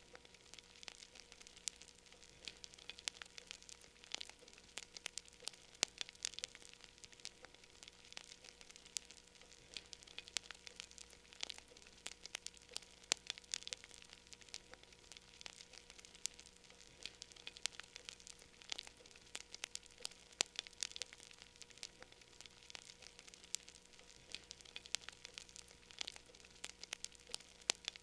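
Wood fire burning in a fireplace, crackling with frequent sharp, irregular pops and snaps over a soft hiss.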